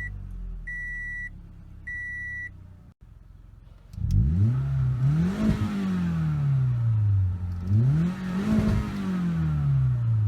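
2013 Toyota Camry SE engine with the muffler removed, idling under three short beeps, then revved twice from about four seconds in, each rev climbing and falling back toward idle. Heard from outside the car, with the exhaust un-muffled.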